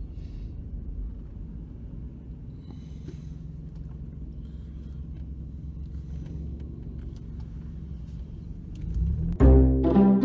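A car driving, a steady low rumble of engine and road noise. Near the end, loud music with plucked and bowed strings comes in.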